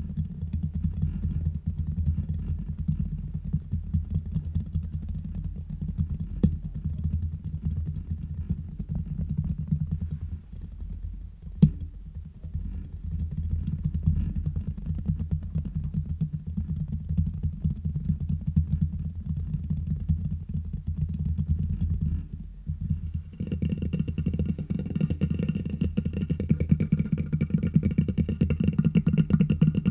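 Fast tapping and scratching directly on a microphone: a dense, deep, muffled run of rapid strokes. There is one sharp tap a little before halfway, and the texture brightens about three quarters of the way through.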